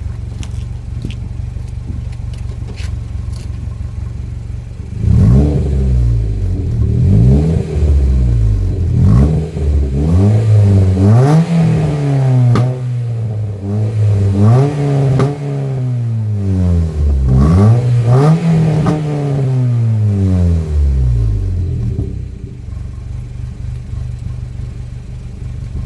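Mk4 Vauxhall Astra 2.2 engine through an aftermarket catback exhaust (Hoffman mid section, Powerflow stainless back box) idling, then free-revved about five times, the pitch rising and falling with each blip, with a few sharp pops and bangs from the exhaust as the revs drop, then settling back to idle near the end.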